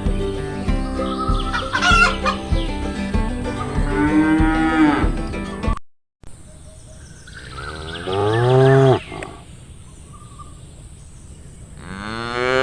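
Farm animal calls, including a cow mooing, over background music; after a sudden break the music stops and a cow moos loudly about two seconds later, with another call near the end.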